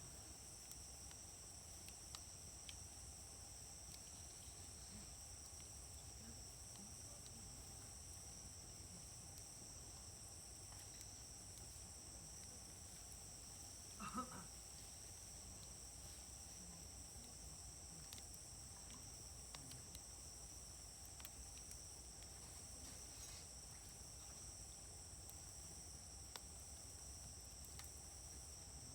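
Wood fire crackling faintly, with small scattered pops, over a steady high-pitched insect drone. One louder short sound comes about halfway.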